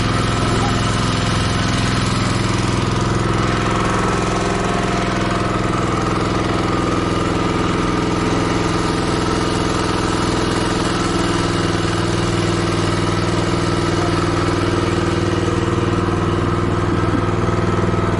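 Motorboat engine running at a steady speed, an even drone whose pitch does not change.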